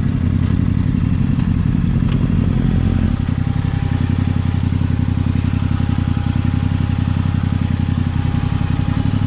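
Yamaha R6's inline-four engine idling steadily through an Akrapovic exhaust, a low, even pulsing with no revving.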